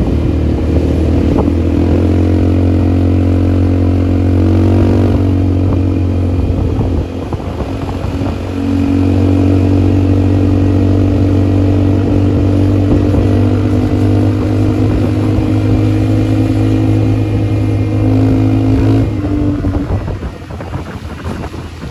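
ATV engine running under way, with a steady pitch that rises a little about 5 s in, eases off briefly about 7 s in, holds steady again, then falls away near the end as the throttle closes.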